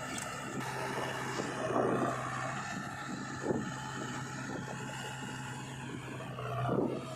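Diesel engine of a JCB 3DX backhoe loader running steadily under load while loading mud, with a few short louder swells.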